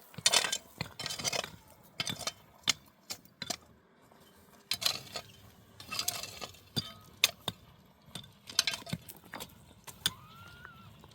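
Objects being handled: irregular clinks and knocks, with short bursts of rustling.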